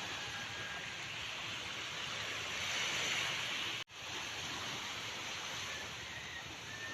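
Sea waves washing in a steady rush of water noise that swells about three seconds in. Just before four seconds the sound cuts out for an instant and returns at once, like an edit splice.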